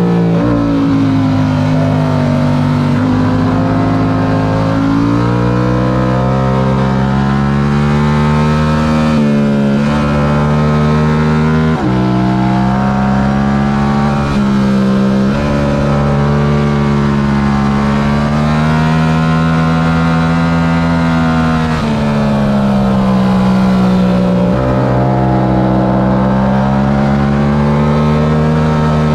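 Stock Yamaha R7's 689 cc parallel-twin engine running hard at race pace, its pitch rising and falling through the corners with several sudden steps from gear changes.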